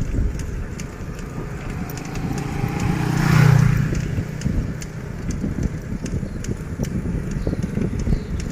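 A motor vehicle passing, growing louder to its loudest about three and a half seconds in and then fading, over a steady rumble of wind and road noise from riding a bicycle.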